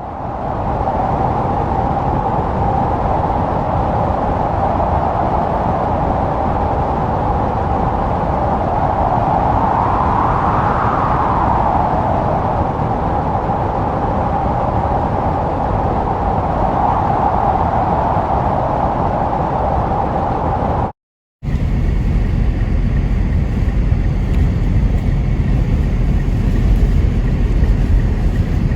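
Blizzard wind blowing hard with a steady howl that swells and rises in pitch about ten seconds in. After a brief cutout about two thirds of the way through, the wind buffets the microphone with a low rumble.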